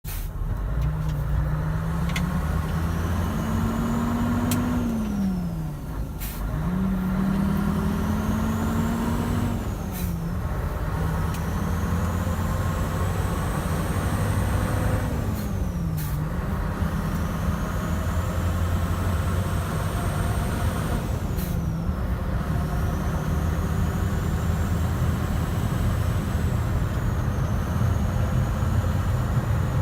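Scania 143 500 truck's V8 diesel pulling away and accelerating through the gears. The revs climb and drop sharply at each of about four gear changes, with a short hiss or click at each shift, then hold steady. A faint high whistle rises and falls with the revs.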